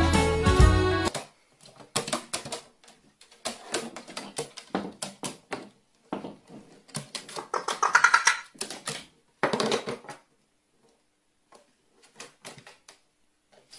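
Music stops about a second in, followed by rapid, irregular tapping and clicking in short clusters with quiet gaps between them. A brief pitched sound comes about eight seconds in.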